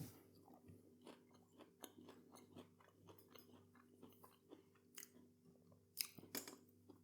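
Faint close-up chewing and mouth sounds of someone eating the soft, mushy filling of a plant-based fishless finger: irregular small wet clicks, with a couple of louder clicks about five and six seconds in.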